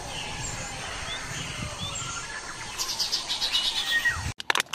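Birds chirping and calling, short repeated chirps with a fast run of chirping in the last part. A few sharp clicks near the end as the sound cuts off suddenly.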